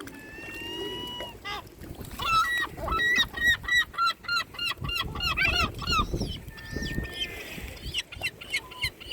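Gulls calling: a long drawn call, then a fast run of short yelping notes at about four a second, with scattered calls near the end.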